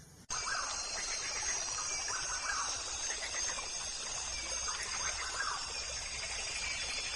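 Birds calling with short notes repeated every second or so, over a steady high-pitched outdoor background hiss, starting abruptly just after the beginning.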